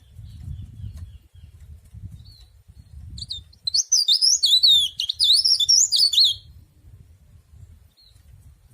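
Cikrak daun (leaf warbler) singing: a burst of fast, sweeping high notes lasting about two and a half seconds in the middle, with a few faint single chirps before and after.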